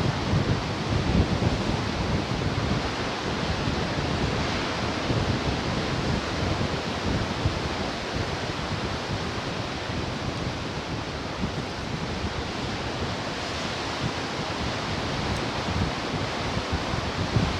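Ocean surf washing steadily onto the shore, with a low rumble of breaking waves, strongest near the start, and wind buffeting the microphone.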